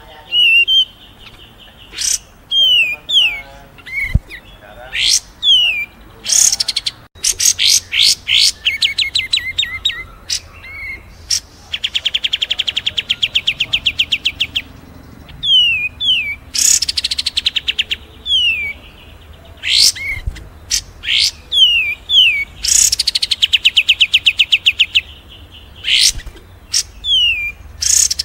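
Edited bird-mastering mix of kapas tembak, cililin and fighting Eurasian tree sparrow songs. Short downward-slurred whistles, sharp high chips and chattering alternate with two long, very fast trills, one about twelve seconds in and one about twenty-three seconds in.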